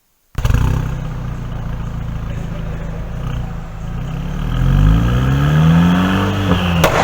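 Audi A5 2.0 TFSI's turbocharged four-cylinder engine running through an aftermarket exhaust. It starts suddenly, then about four seconds in its pitch rises steadily and it grows louder as it revs up. A brief sharp crack comes near the end.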